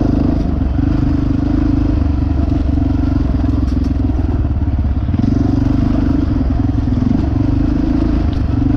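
Dirt bike engine running, its pitch dipping and rising slightly a few times.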